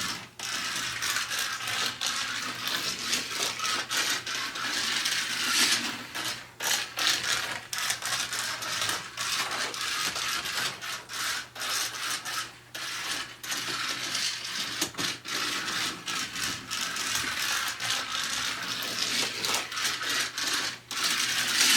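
A slot car running laps on a plastic track, its small electric motor whirring and its guide and wheels rattling over the track, the sound swelling and fading every few seconds as it circles. The car has no traction magnet, so it is run only as fast as it will go without coming off.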